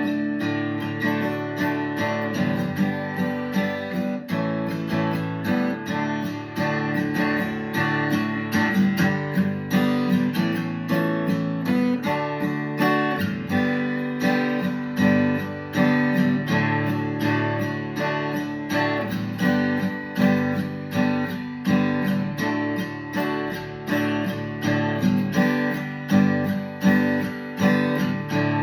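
Acoustic guitar strummed in a steady rhythm with regular chord changes, playing an instrumental break in a song with no singing.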